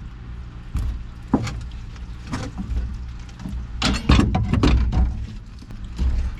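Metal clanks and knocks from tools and parts during hands-on work on an excavator's hydraulic control valve, over a steady low rumble. There are a few separate knocks, then a quick flurry of clanks about four seconds in.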